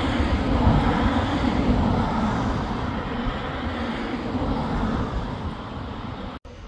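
A train passing, a loud rumble and rush that slowly fades away, broken off by a sudden cut near the end, after which it is quieter.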